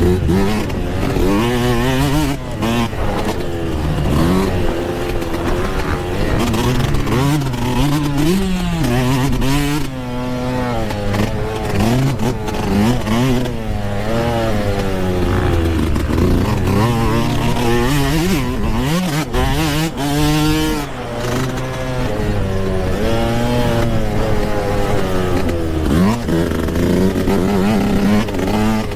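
Yamaha YZ125 two-stroke dirt bike engine being ridden hard, revving up and dropping back again and again, its pitch rising and falling every second or two.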